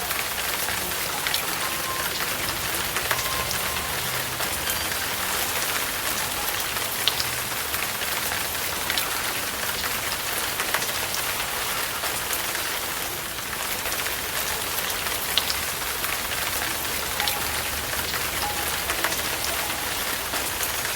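Steady rain falling, an even hiss with scattered sharp taps of individual drops.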